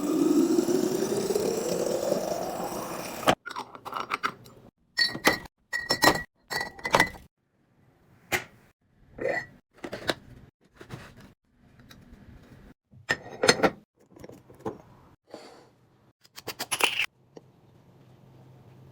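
Liquid poured into a container for about three seconds, its pitch rising steadily as the container fills, then stopping abruptly. This is followed by a run of separate clinks, taps and knocks of containers being handled and set down, a few of them ringing briefly.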